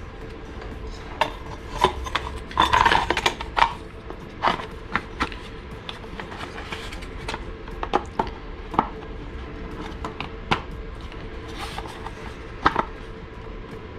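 Irregular clicks and knocks of the outer casing of an Eberspacher Airtronic D2 diesel heater being handled and fitted back over the heater, busiest about three seconds in.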